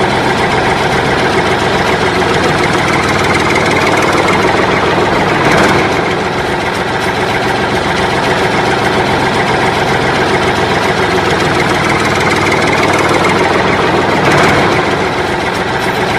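An engine running steadily, briefly louder twice, about five and a half and fourteen seconds in.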